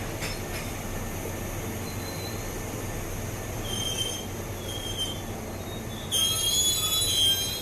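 Tobu Railway train moving along the station platform with a steady low rumble; its wheels give short high-pitched squeals about four and five seconds in, then a loud squeal of several high tones for about a second and a half near the end.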